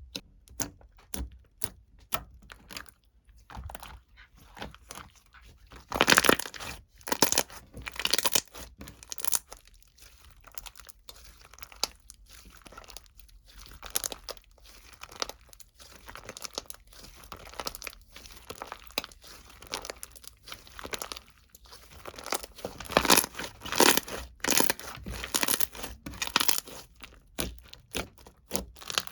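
Irregular close-up crinkling and crackling noises, like material being crumpled or torn, with two louder, denser stretches about six and twenty-three seconds in.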